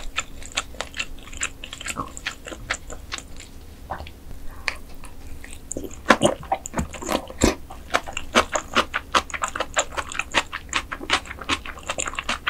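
Close-miked chewing and biting of mantis shrimp, a dense run of sharp mouth clicks several a second, growing thicker about halfway through.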